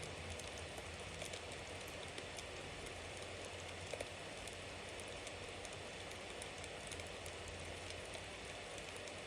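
Bonfire burning with a steady hiss and many small, scattered crackles and pops, one louder pop about four seconds in.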